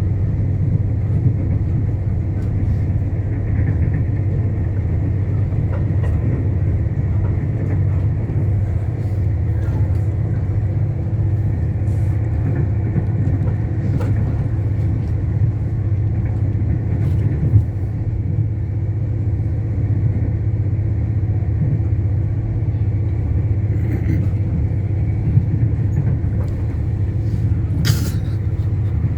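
Steady rumble and drone of a moving train heard from on board, with occasional sharp clicks and a brief hiss near the end.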